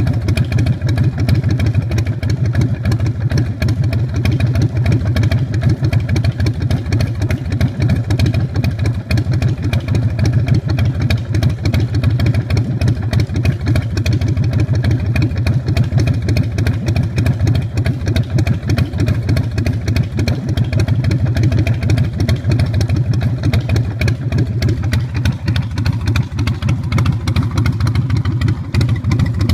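2005 Big Dog Pitbull chopper's carbureted 117 cubic inch S&S V-twin running steadily through its custom exhaust, an even, low-pitched rumble of firing pulses.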